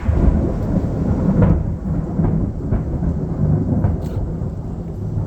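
Loud thunder: a sharp crack right at the start, then a long low rumble that rolls on.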